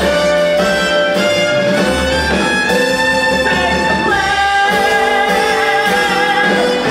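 Theatre pit orchestra playing a show tune, with strings carrying a melody of long held notes that change every second or two over a steady accompaniment.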